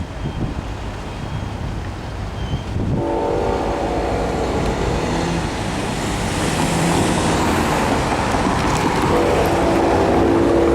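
Long Island Rail Road train horn sounding a long chord about three seconds in, then a second blast near the end, over the steady rumble of the passing train.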